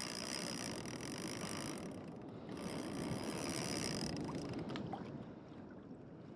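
Water rushing and lapping against a kayak hull on the open ocean, a steady noisy wash that eases a little near the end.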